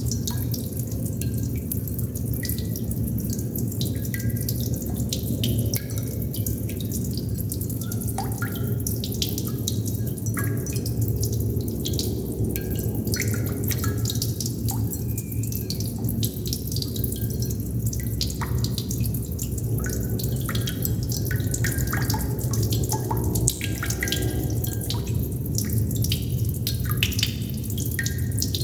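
Water droplets dripping: many irregular plinks, some with a brief ringing pitch, over a steady low rumble.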